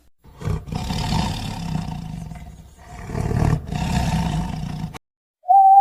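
A big cat, lion or tiger, roaring twice: two long, rough roars of about two seconds each, back to back.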